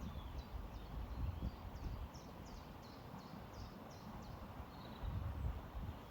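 A small songbird calling a series of short, high, down-slurred notes, about two or three a second, in two runs with a pause between. Beneath it runs a steady low rush of river water and breeze.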